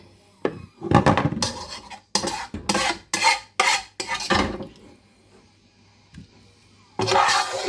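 A spoon scraping and clinking against a pan and pie dishes as filling is spooned in. There are about seven quick strokes in a row, a pause, then one more scrape near the end.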